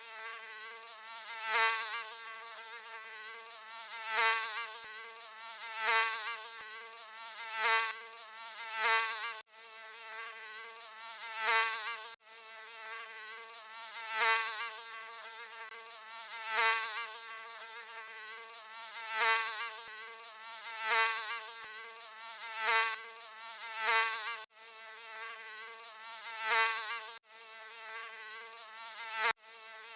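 Mosquito whine: a high buzz with a wavering pitch that swells louder every two seconds or so, as if flying close past the ear. It cuts out for an instant several times.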